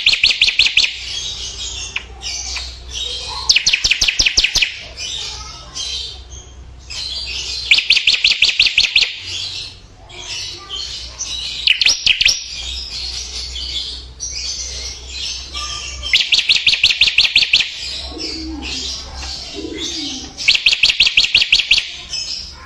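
Songbird singing: a fast run of rapid, evenly spaced notes lasting about a second, repeated roughly every four seconds, with softer chirping and twittering in between.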